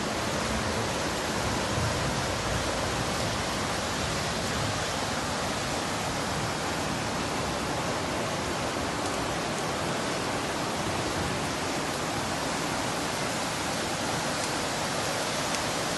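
Steady rushing of water, an even hiss-like roar that holds at one level throughout.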